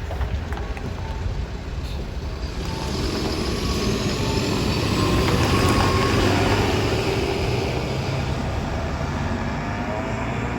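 Nissan Diesel Space Runner bus's diesel engine running loudly with an abnormal noise, which the uploader takes to come from a rotating part under the engine compartment. It gets louder about three seconds in, peaks midway, then eases back.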